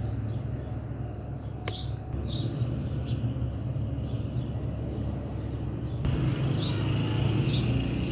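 A few short, high, falling bird chirps over a steady low hum, with the background changing abruptly about six seconds in.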